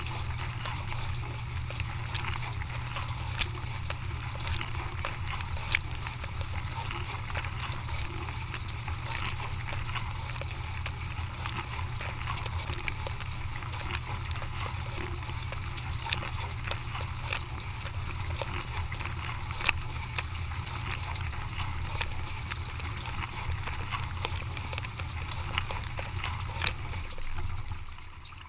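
Dishwasher running a wash cycle: a steady pump hum under water spraying inside the tub, with scattered ticks of water striking. The pump and spray stop near the end.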